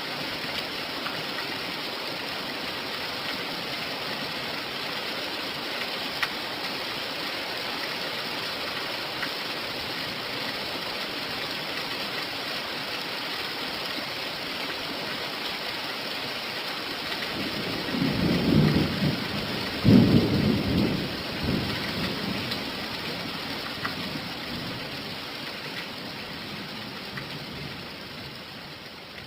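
Steady rain falling, an even hiss, with a rumble of thunder about two-thirds of the way through, the loudest sound here. The rain fades down near the end.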